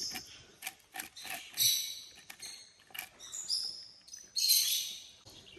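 Birds chirping in three short bouts, the last and loudest near the end, over scattered soft clicks and taps.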